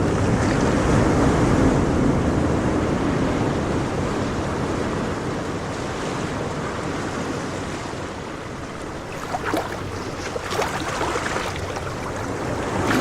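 Polaris 500 ATV riding through shallow river water, its engine running under a steady wash of water and wind noise, with a few short sharp splashes about two-thirds of the way in.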